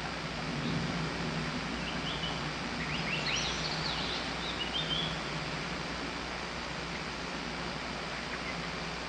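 A wild bird gives one short burst of high chirps and quick rising notes, about two to five seconds in, over a steady background hiss and a low hum.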